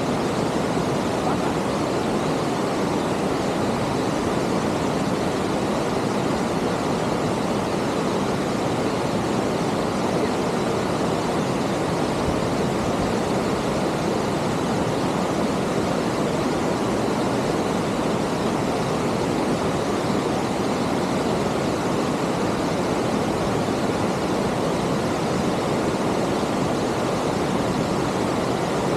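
Waterfall: water falling steadily down a multi-tiered cascade, a dense, even rush that does not change.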